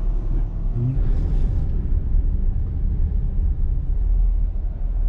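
Steady low rumble of a car on the move, heard from inside.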